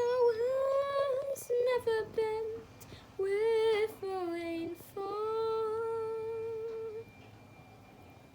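A woman's voice singing a slow melody unaccompanied, with held, wavering notes in several short phrases, ending about seven seconds in.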